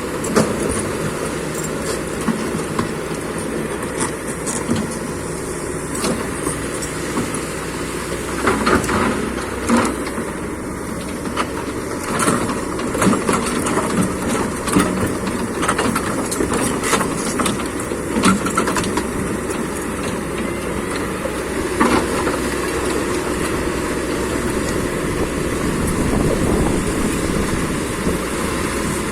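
Excavator's diesel engine running steadily, with irregular clanks and rattles of metal on top, many of them about a third of the way in and a single sharp one about three-quarters of the way through.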